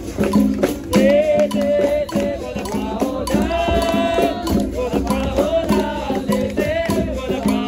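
Capoeira roda music: berimbaus and caxixi rattles keep a steady rhythmic pulse with hand percussion while voices sing over it.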